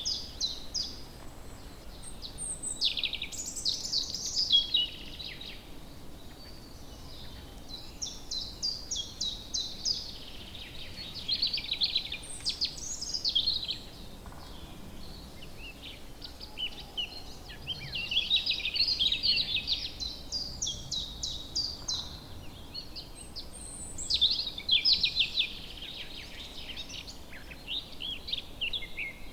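Woodland birds singing: phrases of rapid, high chirping notes and short trills, one after another every few seconds, over a faint steady background noise.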